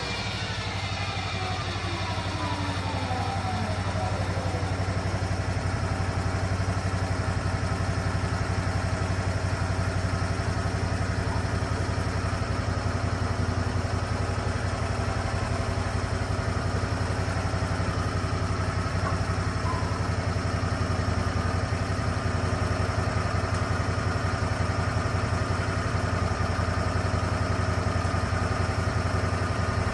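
Lucas Mill 10-30 sawmill's engine running steadily, a whine falling in pitch over the first few seconds before it settles.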